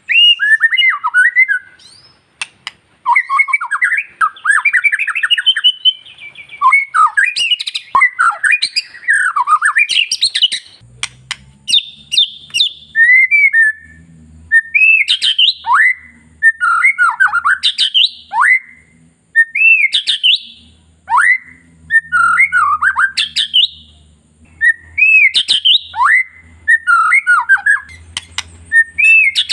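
White-rumped shama (murai batu) singing: a loud, rapid, varied song of whistled phrases that sweep up and down in pitch, mixed with harsh squawking notes, with hardly a pause.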